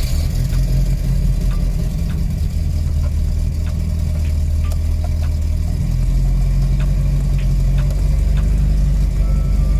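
A 1979 Volvo 244's carbureted four-cylinder engine catches on a cold start and runs at a fast idle on the manual choke. A hole in the exhaust makes it sound rough. The note shifts slightly about six seconds in.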